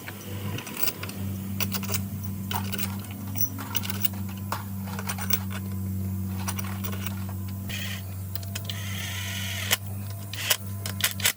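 Steady machine hum with many small, sharp metallic clicks and clinks from work on metal parts, with a short hiss near the end.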